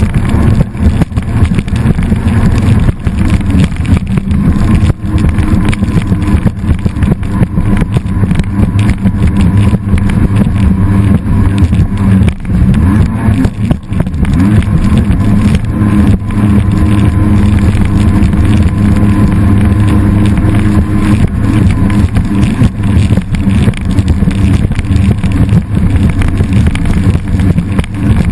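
A motor engine running loud and steady at a constant speed, with choppy noise over it.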